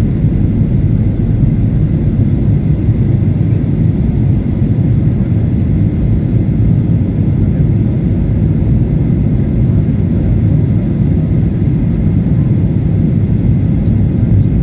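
Steady low rumble of a Batik Air jet airliner, heard from inside the passenger cabin.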